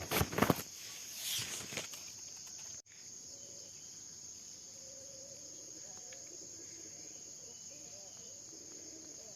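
Steady high-pitched drone of insects chirring in the vegetation, with a few loud rustles near the start.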